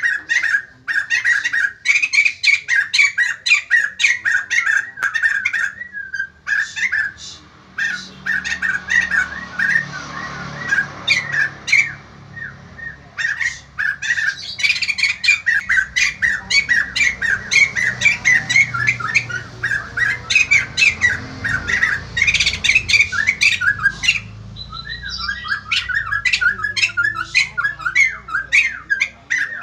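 White-crested laughingthrush calling in full voice: a rapid run of sharp, squawking chatter, several notes a second, broken by brief pauses.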